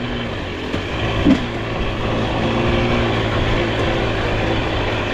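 Dirt bike engine running steadily while riding along a trail.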